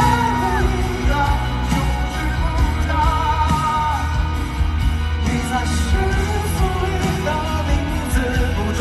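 Live Mandopop concert music: a singer's voice over a band with heavy bass, heard in a stadium.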